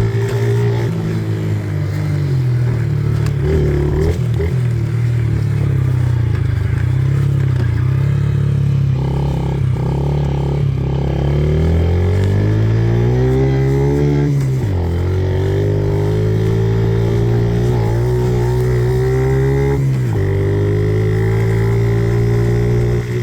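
Yamaha dirt bike engine running under way as it is ridden. The pitch climbs with the throttle and falls away sharply about fourteen seconds in and again about twenty seconds in.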